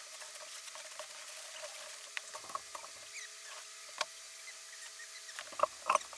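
Scattered light clicks, taps and scratches from small objects being handled, with a few sharper taps near the end, over a faint steady hum.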